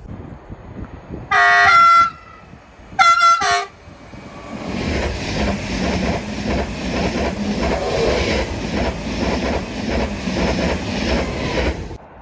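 Two short blasts of a train horn, about a second apart. Then the train runs past with a steady rumble and its wheels clicking over the rail joints, cutting off sharply near the end.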